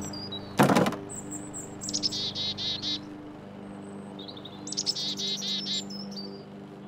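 Songbirds singing two fast trilled phrases, about two and five seconds in, over a steady low hum. A loud thump comes about half a second in.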